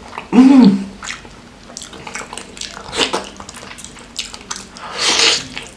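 Close-up wet chewing and mouth clicks from a mouthful of soft beef tendon (tunjang) in curry sauce. There is a brief hum about half a second in and a louder wet rush of noise near the end.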